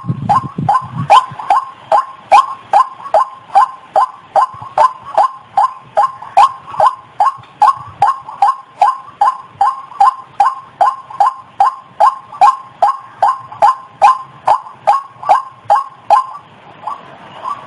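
White-breasted waterhen calls, a steady run of short, harsh, repeated notes, about two and a half a second, each dropping slightly in pitch. This is the bird-lure call used to draw waterhens in.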